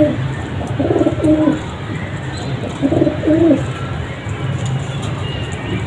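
Domestic pigeons cooing: two cooing phrases, about a second in and about three seconds in, over a steady low hum.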